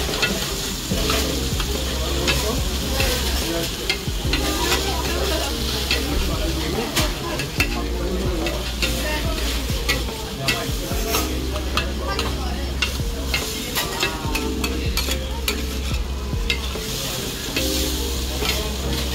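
Food sizzling in hot fat, a steady hiss with frequent crackling pops, under background music.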